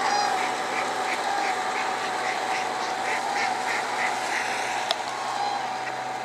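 A flock of coots calling in short, quick notes, repeated about three times a second, over the steady hum of a feeding tractor's engine running.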